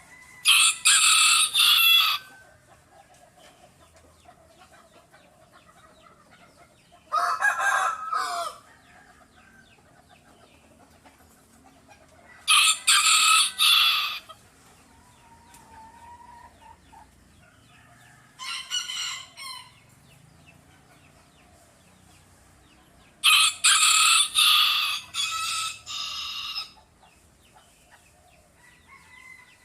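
Domestic rooster crowing: five loud crows, each lasting a second or two and spaced several seconds apart.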